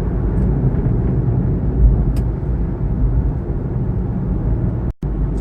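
Steady low road and engine rumble inside the cabin of a Kia Morning (TA) driving at road speed, with a brief gap in the sound near the end.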